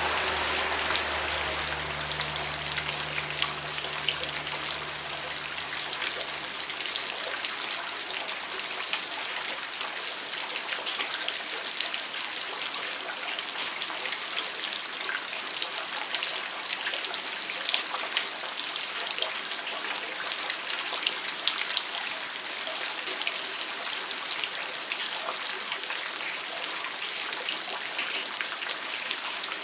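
Steady rain falling, with many individual drops ticking on a surface. A low hum underneath fades out in the first several seconds.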